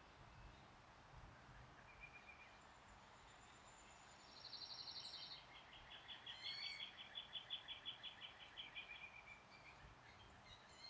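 Songbirds singing faintly: a short high note, then a quick high trill about four seconds in, followed by a longer run of rapid repeated notes, several a second, that stops after about three seconds.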